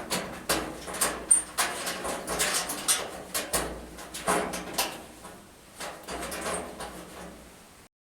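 Disposable furnace filter being slid along its metal slot on the return-air duct, with irregular scraping, rustling and a few sharp knocks.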